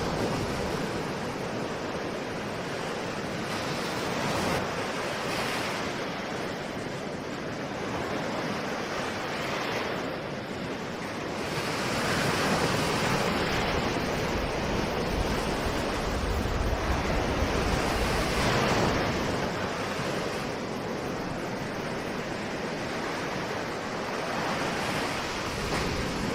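Ocean waves breaking and washing on a shore, a steady rushing surf that swells and ebbs every few seconds, loudest about halfway through.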